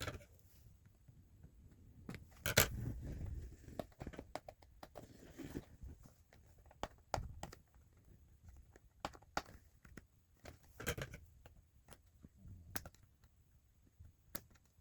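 Plastic toy train and its packaging being handled: irregular clicks, taps and rustling, with the loudest knock about two and a half seconds in.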